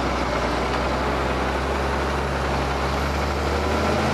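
Ford TW tractor's diesel engine running steadily while pulling a plough, a constant low drone.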